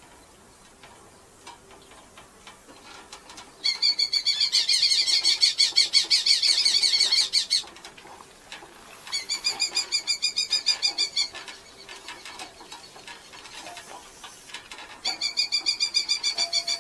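Red-footed falcons giving fast series of high, repeated calls in three bouts, starting about four, nine and fifteen seconds in, with faint ticking and scratching in the nest box between bouts.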